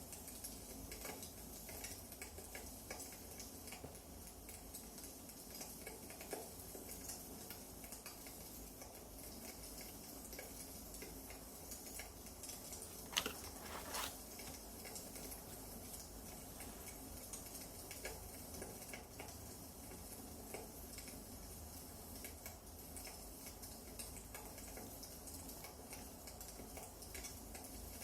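Wood fire crackling: a scatter of small ticks and snaps over a soft hiss, with two louder pops close together near the middle.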